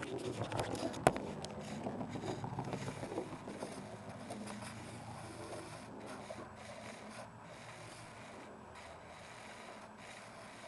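Faint scraping and rubbing, handling noise with small ticks and one sharp knock about a second in, fading over the last seconds.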